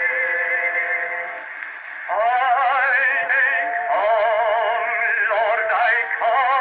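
Acoustic cylinder recording of a singer played on an Edison Amberola 30 phonograph from a Blue Amberol cylinder, with a narrow, tinny range. A held note fades out after about a second and a half, and at about two seconds the voice comes back in with a wide vibrato.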